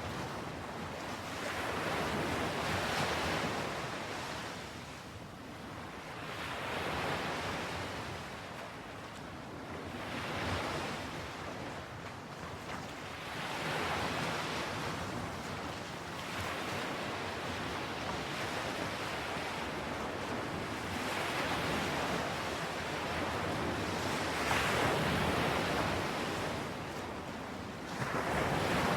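Ocean waves washing on a shore, the surf swelling and falling back every few seconds, with a light wind.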